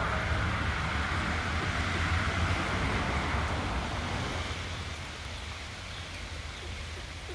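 Steady rain falling, with a louder rushing noise over it in the first half that fades away about four seconds in.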